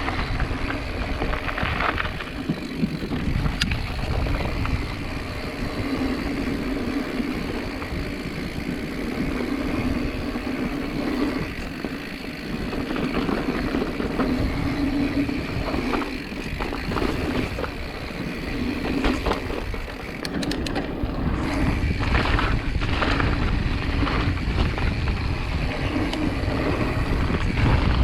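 Wind buffeting the microphone over a continuous rumble, with scattered clicks and rattles, as of a mountain bike being ridden over rough ground.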